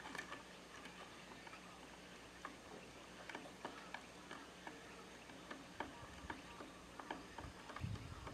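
Eurasian tree sparrows pecking at feed on a feeder: irregular short, faint ticks, a few a second, growing more frequent after the first couple of seconds. A low rumble comes in near the end.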